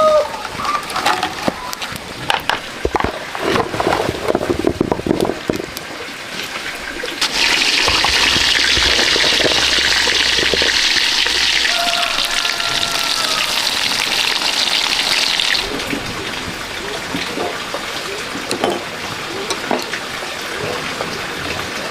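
Water pouring or running steadily for about eight seconds, starting and stopping abruptly, after several knocks and clatters in the first few seconds.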